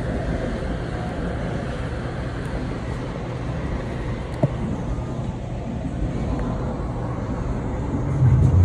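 Freight train of empty intermodal spine cars rolling past, a steady rumble of steel wheels on the rails with a sharp click about four and a half seconds in. The low rumble grows louder near the end.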